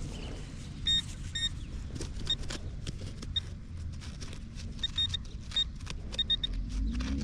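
Metal-detecting gear sounding on a buried target: short high electronic beeps, singly and in quick runs of two to four. Under them come knocks and scrapes of digging in soil.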